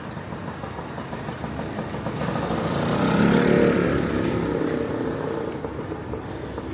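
A motor vehicle passing close by on a city street. Its engine and tyre noise swell to a peak about three and a half seconds in, then fade, over steady traffic hum.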